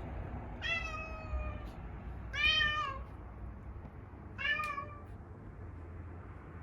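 Domestic cat meowing three times, the first call long and falling in pitch, the second the loudest.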